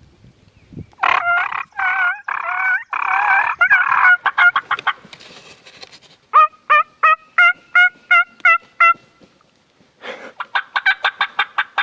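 Wild turkeys calling: loud gobbling in the first few seconds, then a series of about eight evenly spaced yelps, and a quicker run of short notes near the end.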